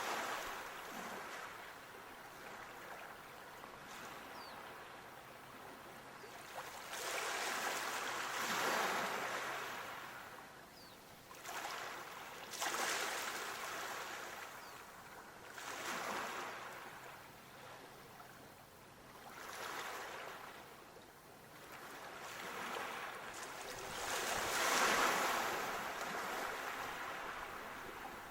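Waves washing in: a rushing water noise that swells and fades every few seconds.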